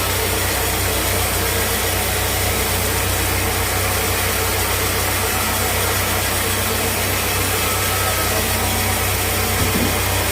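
Sawmill machinery running steadily: a constant low engine-like hum under an even, noisy hiss, with no change in level.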